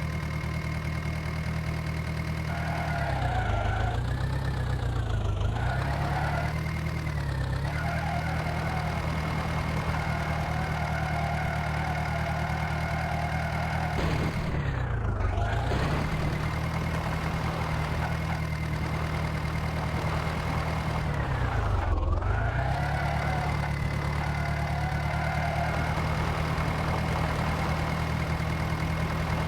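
Swaraj tractor's diesel engine running steadily. Its engine speed sags and climbs back about four times: briefly around 4 and 7 seconds in, then deeper dips near the middle and about three-quarters of the way through.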